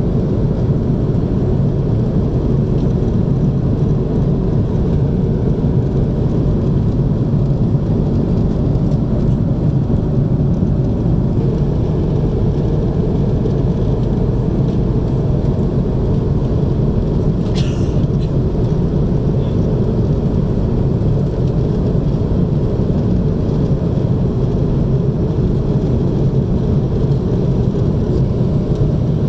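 Steady rumble of an Airbus A330-300 cabin in flight: engine and airflow noise, heaviest in the low end and unchanging, with one faint brief click about two-thirds of the way through.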